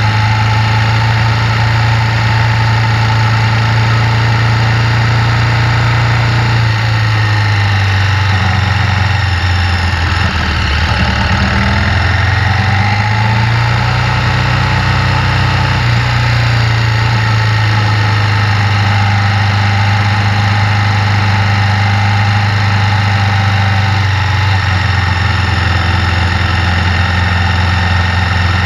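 KTM 1190 Adventure's V-twin engine running under way, heard from the bike itself, a steady loud drone whose pitch dips and then climbs again about halfway through.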